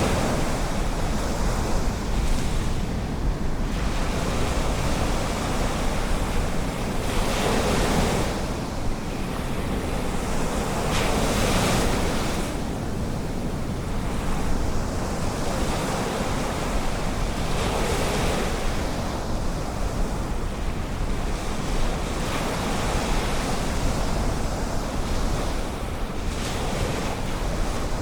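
Ocean surf washing onto a beach, with waves breaking and swelling up several times, a few seconds apart. Wind on the microphone adds a steady low rumble underneath.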